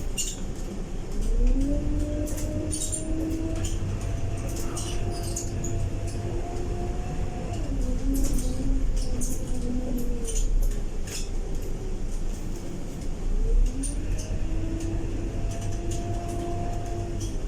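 Scania K230UB bus drivetrain, engine and ZF 6HP504C automatic gearbox, heard from inside the cabin: a whine rises as the bus accelerates, holds, falls away around the middle and rises again near the end, over a low rumble. Interior panels click and rattle throughout.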